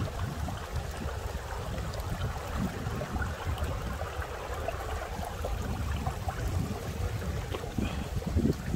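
Strong gusting wind buffeting the microphone: an uneven low rumble that swells and drops over a steady rushing hiss.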